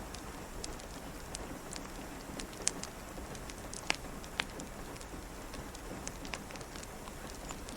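Steady rain hiss with the sharp pops and crackles of a wood fire scattered through it, a few louder snaps around the middle.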